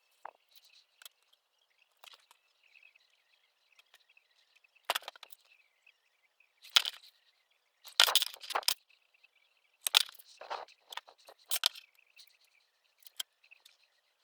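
Irregular sharp clicks and clatters of hard objects being handled, in scattered single knocks and short clusters, loudest around the middle, over a faint steady high chirping in the background.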